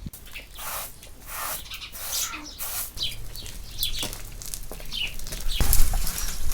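Birds chirping in short, falling calls among several swishing noises, with a louder low rumble setting in near the end.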